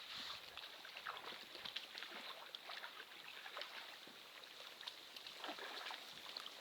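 Small waves lapping and splashing irregularly at the water's edge, with a soft steady hiss underneath.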